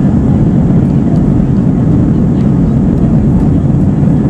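Steady, loud cabin noise inside a British Airways Airbus A320-232: a constant low rush of its IAE V2500 engines and airflow, with no change in pitch or level.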